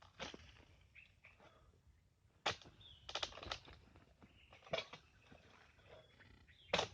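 Irregular sharp chopping knocks: a dodos (long-handled oil palm harvesting chisel) being jabbed into palm frond stalks to cut them free, with a quick run of strikes in the middle and a strong one near the end.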